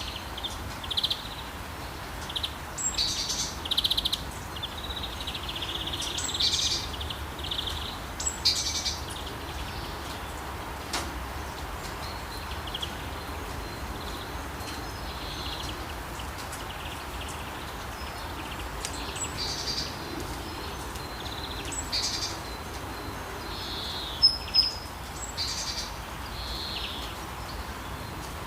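Songbirds chirping and calling again and again over a steady hiss of gentle rain, with two sharp, louder chirps near the end.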